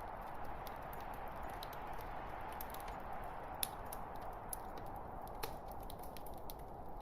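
Log fire crackling: a steady hiss of burning with frequent small pops and clicks, two sharper pops standing out about halfway through and later on.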